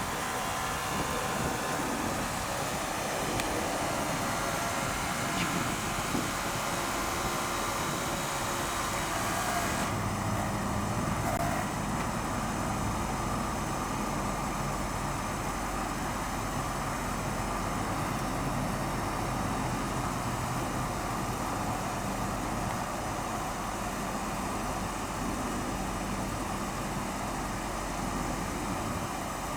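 1967 Lincoln Continental's V8 running, with steady road and wind noise; about ten seconds in the hiss drops away, leaving a steadier, lower engine hum.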